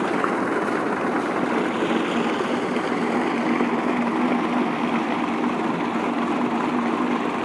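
Mahindra 575 DI tractor's diesel engine running steadily at PTO speed, driving a 4-inch centrifugal water pump mounted on the PTO shaft. There is a constant drone with a steady hum.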